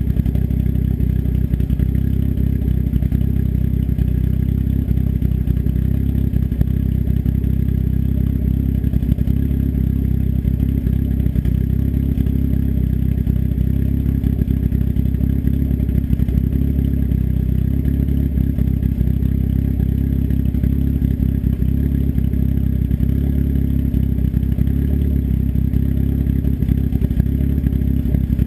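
Turbocharged engine with an S257 turbo and custom cams idling steadily through an open 3-inch turn-down dump off the downpipe, with no muffler. The running stays even throughout.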